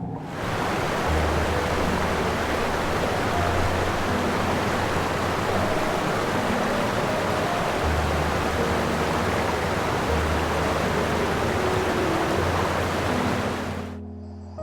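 A steady, even rushing noise like hiss or falling water, over soft background music with held low notes; it starts suddenly and fades out near the end.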